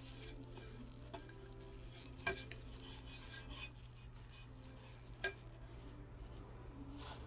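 A tumbler being handled and turned over: a few faint knocks and clinks, about three in all, over a steady low hum.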